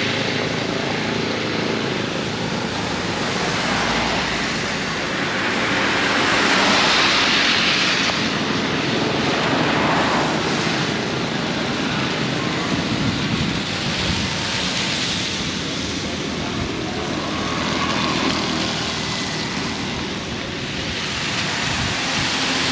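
Heavy rain pouring down with strong, gusting wind. The noise swells and eases every few seconds as the gusts come and go.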